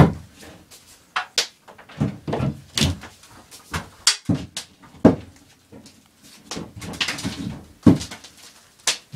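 Irregular sharp knocks and clatters, about a dozen, with the loudest right at the start and two more near the end, and low muffled sounds between them.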